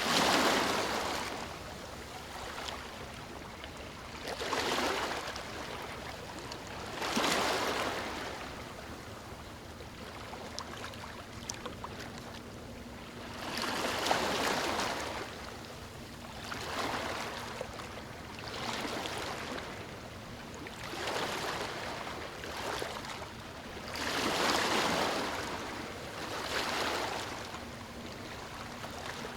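Ocean waves breaking on a beach: the surf swells into a rushing wash every few seconds and ebbs back between breakers, over a steady hiss of water.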